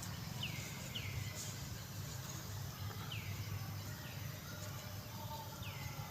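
A bird calling in short high chirps, each falling in pitch, five times at uneven intervals over a steady low hum.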